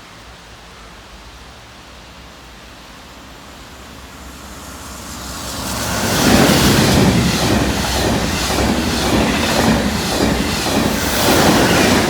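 A train passing through the station at speed: a rushing noise builds over a few seconds, then a loud run of rhythmic wheel clacks over the rail joints as the carriages go by, falling away near the end.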